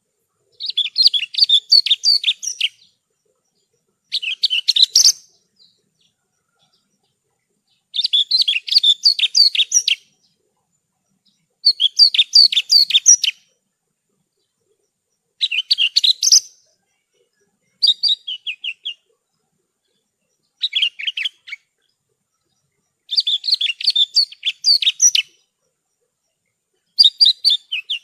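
Horsfield's bush lark (branjangan) singing: about nine short phrases of rapid high chirps and trills, each one to two seconds long, separated by silent pauses.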